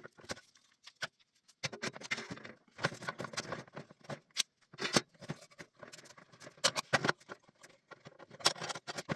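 Clamps being loosened and taken off a glued wooden workpiece: a run of irregular clicks, knocks, rattles and scrapes.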